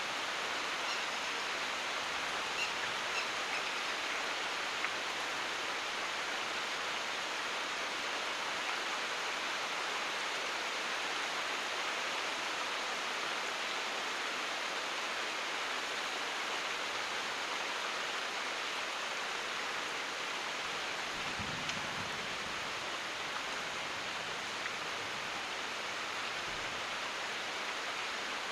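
Steady rain falling, an even hiss with a few sharper drop ticks a few seconds in. A faint low rumble of distant thunder comes about three quarters of the way through.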